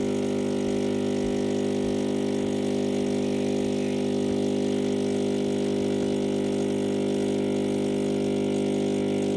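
Breville Barista Max+ espresso machine's pump humming steadily as it pulls a double shot of espresso.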